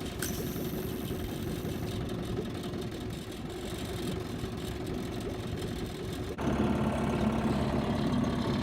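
1965 Johnson 3 hp JW-20 two-stroke outboard motor running steadily, pushing an aluminum canoe. The hum steps suddenly louder about six seconds in.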